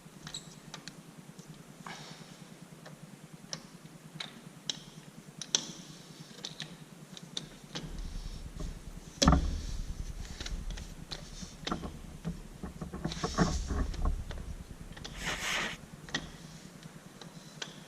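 Scattered light clicks and knocks of hand tools and metal parts during work on a tractor, with one sharp knock about nine seconds in and a low rumble for several seconds around it.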